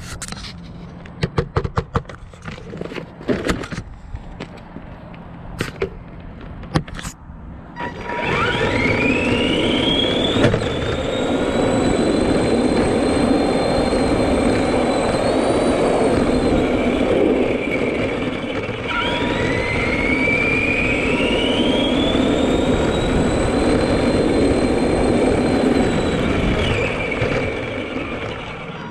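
Arrma Granite 4x4 RC monster truck's electric motor and gears whining, the pitch climbing as it speeds up about eight seconds in. The whine eases off, climbs again, and is held before fading near the end. Before the run, a scatter of clicks and knocks.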